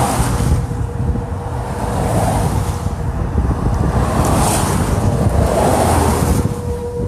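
Gusty wind buffeting the phone's microphone, a heavy low rumble that swells and eases about four times.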